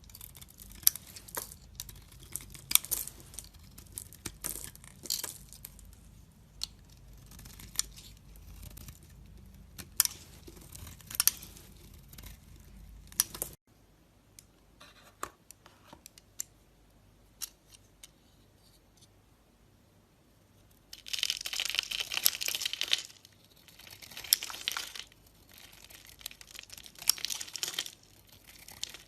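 Knife cutting and carving dry bar soap: crisp crackling and crunching as the blade breaks through. The background changes suddenly about halfway, and two longer crunching cuts come near the end.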